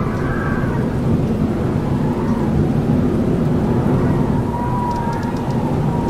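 Howling wind: a steady low rumble of gusts with a thin, wavering whistle over it. About four and a half seconds in, one higher whistling tone holds and slowly falls.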